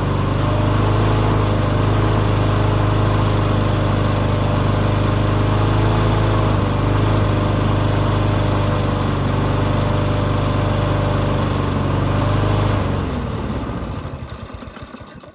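Lawn mower engine running steadily, then shut off near the end, slowing through a few last strokes to a stop. The owner judges that it runs pretty well despite its bad oil.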